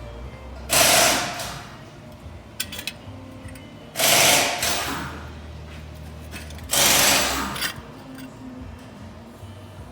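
Power tool run in three short bursts about three seconds apart, working the rusted exhaust fasteners loose. Each burst starts suddenly and tails off, with a faint low hum in between.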